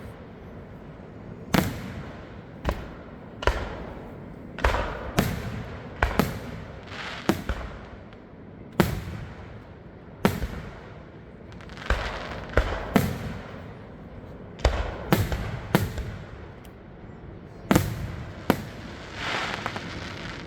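Aerial fireworks shells bursting one after another, about twenty sharp bangs at uneven spacing, each with a short rumble, and a longer crackle near the end.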